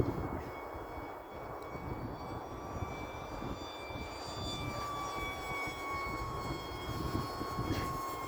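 Electric motor of a 4S-powered RC model fighter jet whining steadily in flight, its pitch drifting slightly lower over the second half. Wind rumbles on the microphone underneath.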